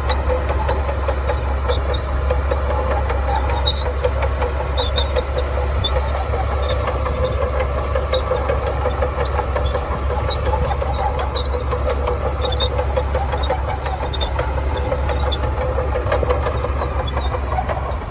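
Shantui DH17C2 bulldozer's diesel engine running steadily under work, a deep continuous hum with faint high clinks now and then.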